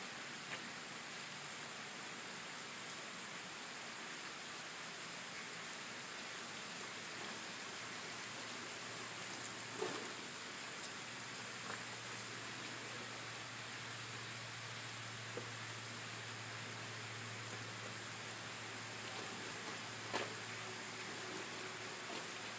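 Steady rain falling on pavement and lawn, an even hiss with scattered louder drips. A low hum joins about eight seconds in and fades out near the end.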